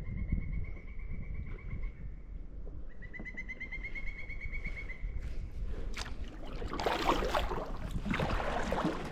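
A bird's high, thin whistled call: one held note for about two seconds, then a quick run of short, evenly spaced notes about three seconds in. Bursts of rustling, splashing noise follow near the end.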